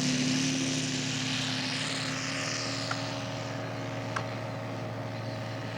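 Engine and propeller of a radio-controlled scale model PT-23 running at a steady speed, slowly getting quieter.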